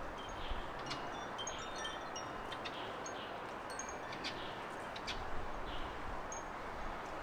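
Small garden birds calling in short, high chirps and thin tinkling notes, scattered throughout, over a steady background hiss.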